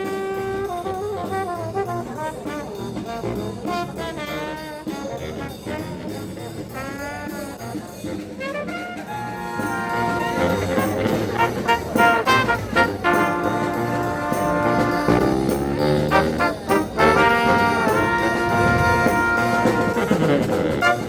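Brass music in a jazz style, with sliding notes early on, then a fuller, louder ensemble with a steady pulse from about ten seconds in.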